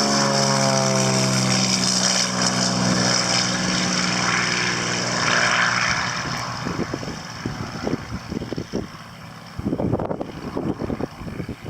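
Piston engine of a vintage propeller airplane taking off past the listener, its pitch falling as it goes by, then fading away after about six seconds. Near the end, wind buffets the microphone.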